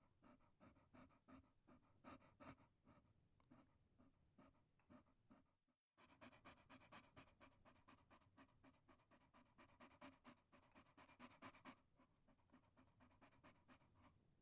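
Chihuahua panting quickly and faintly, about four or five breaths a second, with a brief break a little under six seconds in.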